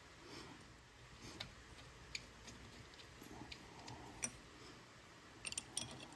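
Faint scattered clicks and taps of small engine parts and tools being handled during reassembly, one sharper click about four seconds in and a quick run of clicks near the end.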